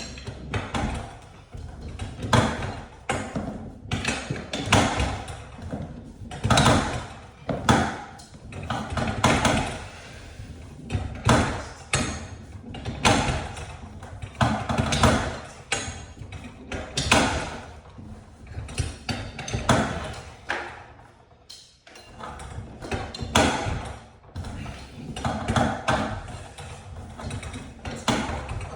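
Repeated mechanical clanking and rattling from garage door hardware being worked on, about one knock every one to two seconds, with a short pause a little over twenty seconds in.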